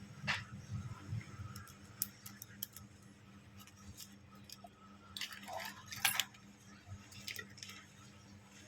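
Scattered light clicks and taps of small hard parts and tools being handled during a phone screen repair, with two sharper clicks, one just after the start and one about six seconds in, over a low steady hum.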